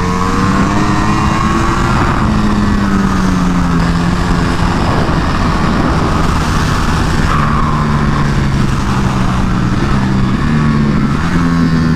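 Sport motorcycle engine run hard on a track, its note climbing and then dropping at gear changes, over steady wind rush.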